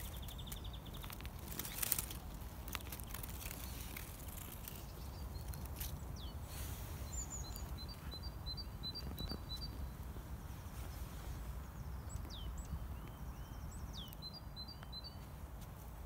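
Small forest birds calling in the background: short repeated high chips, thin downward slurred notes and brief trills, over a steady low rumble. A short burst of rustling about two seconds in.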